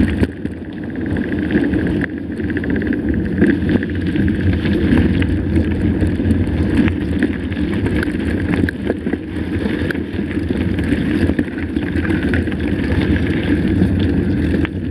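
Mountain bike rolling along a dirt road: steady tyre rumble and wind on the microphone, with a few faint ticks and rattles.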